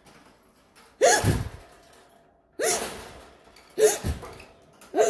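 A person gasping sharply four times, roughly a second to a second and a half apart, each a short breathy burst with a quickly falling pitch.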